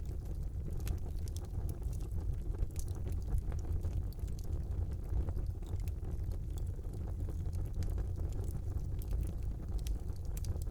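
Fire burning in a brick fireplace: a steady low rumble of the flames with scattered crackles and pops.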